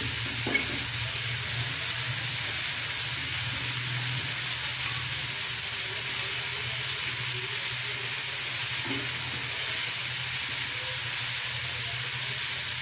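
Chicken pieces sizzling steadily in hot oil in an aluminium wok, a constant frying hiss as they brown and are turned over.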